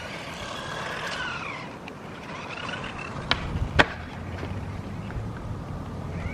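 RC truck's motor whining, its pitch rising and then falling as the truck speeds up and slows, twice over. Two sharp clicks come a little past the middle.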